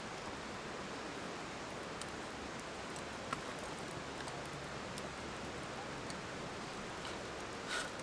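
Wood campfire burning: a steady hiss with scattered small crackles and pops, one a little louder near the end.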